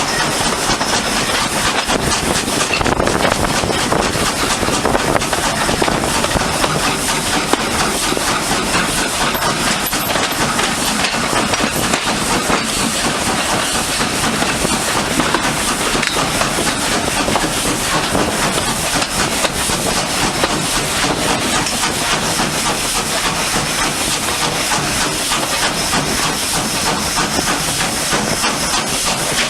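Steam locomotive with a steady, loud hiss of steam and train running noise.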